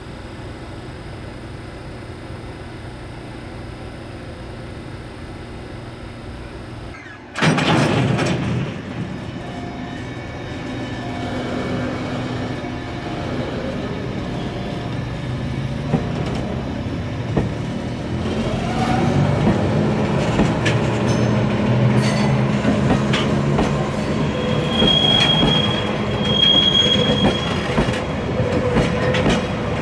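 A steady low hum, then a shunting locomotive slowly hauling a rake of empty Koki 200 container flat wagons over the yard tracks. The wheels clack over rail joints and points under the locomotive's engine note, with a high wheel squeal near the end.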